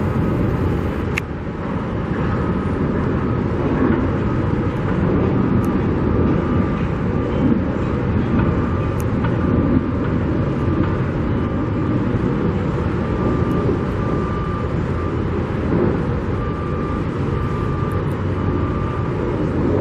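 Steady rumble of construction-site machinery and traffic, with a faint beeping that starts and stops repeatedly over it.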